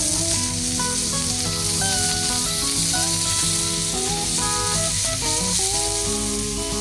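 Asparagus and a block of butter sizzling steadily on a small iron griddle as the butter melts, with background music playing over it.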